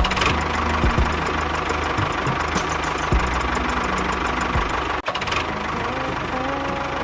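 Small motor of a miniature DIY model construction machine running steadily with a dense whirring rattle, over background music. It cuts out for an instant about five seconds in.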